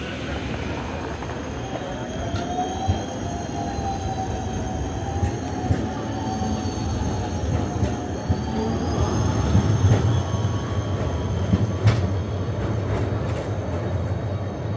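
Rail vehicle running on track with a steady low rumble, its wheels squealing in a wavering high whine, and a few sharp clicks and knocks from the rails.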